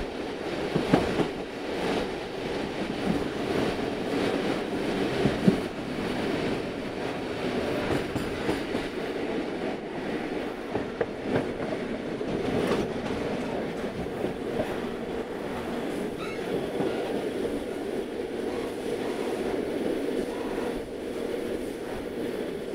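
Talgo sleeper train running, heard from inside the carriage: a steady rail rumble with scattered clicks and knocks from the wheels on the track, a few sharper knocks in the first several seconds.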